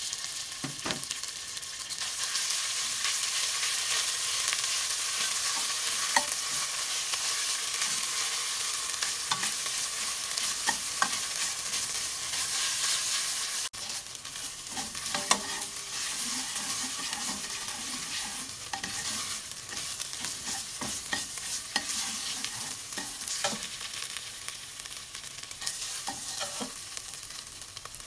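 Green curry paste frying in hot oil in a stainless steel pot, sizzling steadily, while a metal ladle stirs and scrapes it with scattered clicks against the pot.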